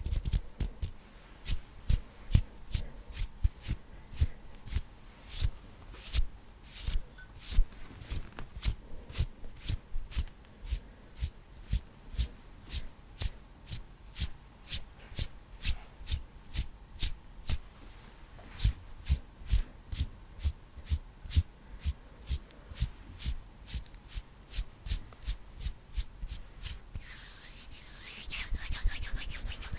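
Bare hands rubbing together close to a microphone in quick, regular strokes, about two to three a second. Near the end the strokes run together into a steadier rubbing.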